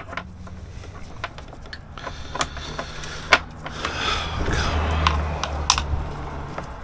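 Metal parts clicking and scraping as a bent engine part is forced into its fitting, over a low steady hum.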